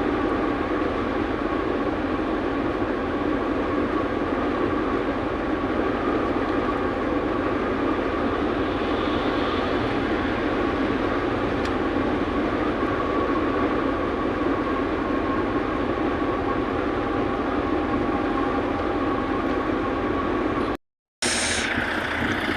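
Steady running noise inside a Renault truck's cab on the move: engine and road noise with a faint steady whine. It drops out for a moment near the end.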